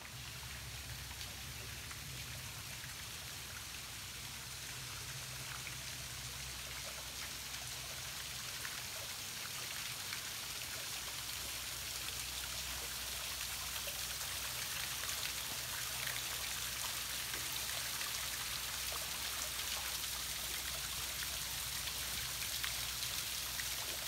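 A thin waterfall splashing and trickling down a rock face: a steady, rain-like hiss of water that grows slowly louder.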